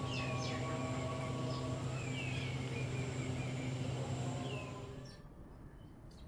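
Birds chirping in short downward-sliding calls over a steady low mechanical hum, and the hum cuts off about five seconds in.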